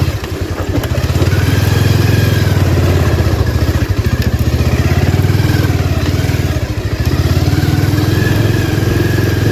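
Motorcycle engine running at low speed under load as the bike is ridden through deep mud, its pace rising and falling slightly.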